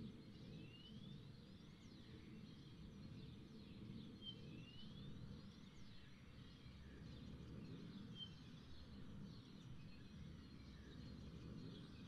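Faint woodland birdsong: a few short high chirps and two thin whistles that slide upward, about four seconds apart, over a steady low rumble of background noise.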